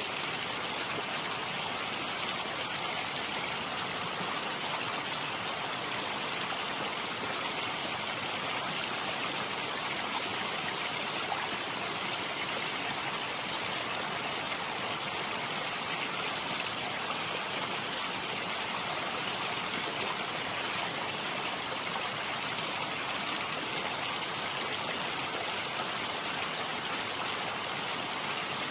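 Steady, unchanging rush of water, an even hiss with no separate drops or splashes standing out.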